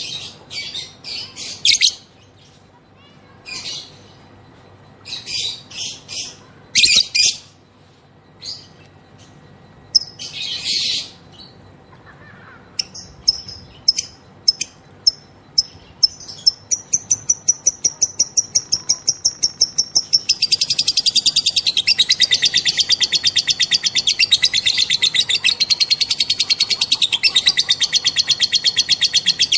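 Female lovebird calling: scattered short high chirps, then a run of quick clicking notes that speeds up, breaking about two-thirds in into a long, unbroken rapid trill, the drawn-out 'ngekek' chatter.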